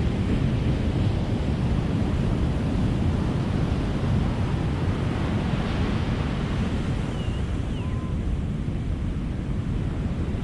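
Ocean surf breaking and washing up a beach, a steady rushing wash of waves. A faint, brief high call sounds about seven seconds in.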